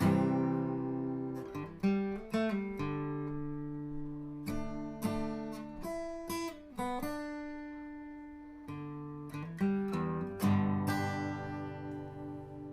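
Intro music: acoustic guitar strumming and picking chords that ring out and fade.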